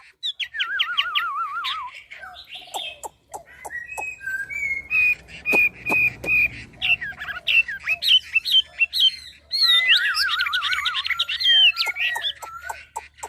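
A songbird singing a long, varied song: rapid wavering trills, a string of held whistled notes about five seconds in, and a dense burst of fast warbling phrases near the end, mixed with many sharp clicks and chips.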